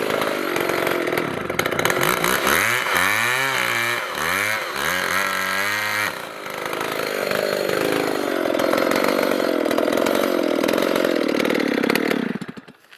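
Two-stroke chainsaw running hard through spruce timber, its engine pitch wavering and sagging under the load of the cut. The saw stops abruptly near the end.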